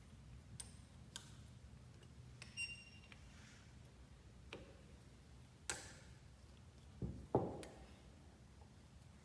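Scattered light clicks and taps of small metal parts and tools being handled during a pump rebuild. One tap about two and a half seconds in rings briefly, and a louder knock comes about seven seconds in, over a faint steady hum.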